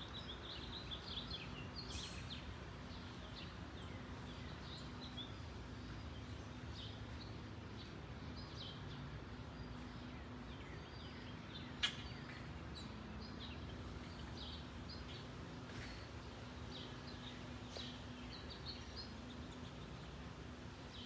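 Small birds chirping in short, repeated calls over a low, steady background rumble, with a single sharp click about twelve seconds in.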